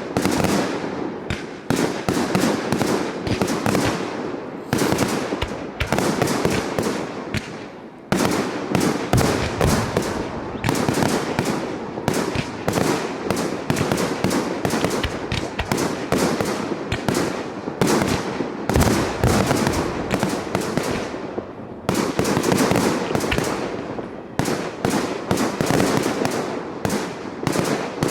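Fireworks display: a dense, continuous barrage of bangs and crackling from aerial shells, many reports a second, with short lulls about eight seconds in and again around twenty-two seconds.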